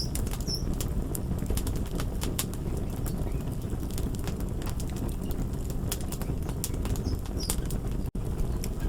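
Crackling wood fire: a steady low rumble with many sharp irregular pops and crackles, and a split-second drop-out near the end.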